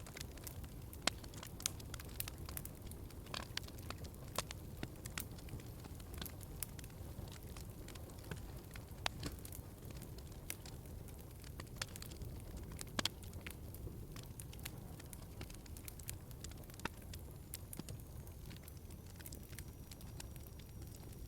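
Wood fire burning in a fireplace, crackling steadily with irregular sharp pops over a low rumble of the flames.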